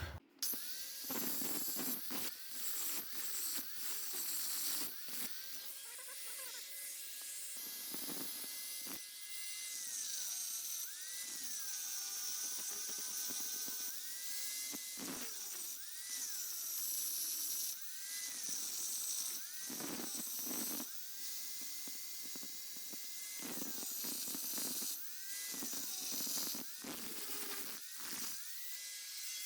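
A small high-speed grinder contouring a steel fender strut, its whine dipping in pitch each time it is pressed into the metal and rising again as it is eased off.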